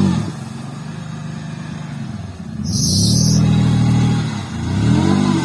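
Off-road vehicle engine revving hard, rising and falling in pitch several times as it works through a creek. A short hiss about three seconds in.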